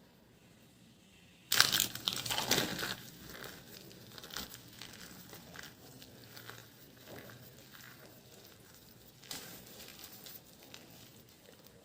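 Dry soap being crushed, crunching and crackling. A loud burst comes about a second and a half in and trails off into lighter scattered crackles, with another short burst near the end.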